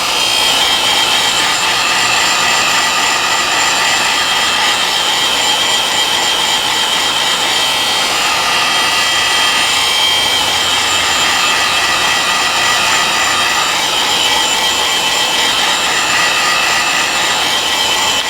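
Heat gun blowing steadily, a continuous rush of air with a high whine, warming a phone's back glass to soften the adhesive before it is pried off.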